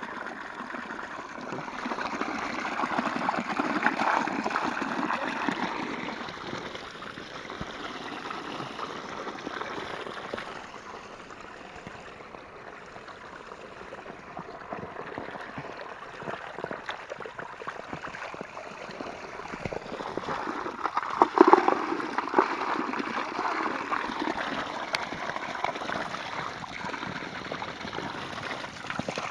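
Running water of a small stream, a steady gurgling flow that grows louder for a few seconds early and again in the last third. About twenty-one seconds in there is one sudden sharp sound.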